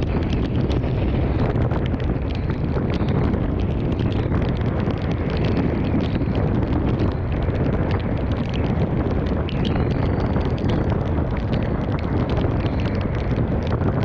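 Severe-thunderstorm wind gusting on the microphone, a steady low rush, with a dense patter of heavy rain drops striking throughout.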